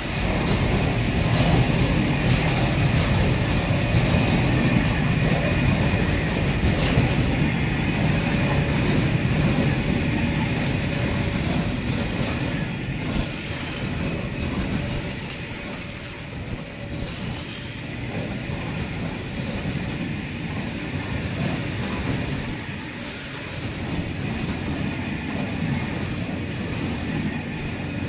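Container freight train's loaded flat wagons rolling past on the rails: a steady rumble of steel wheels on track that grows quieter about halfway through.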